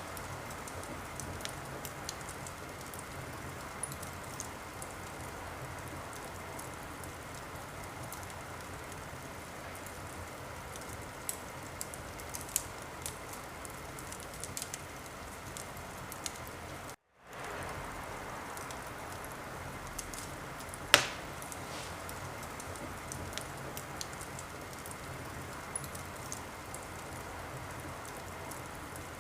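Wood fire crackling in a fireplace: a steady hiss with frequent small pops, and one loud snap about 21 seconds in. The sound cuts out for a moment a little past halfway.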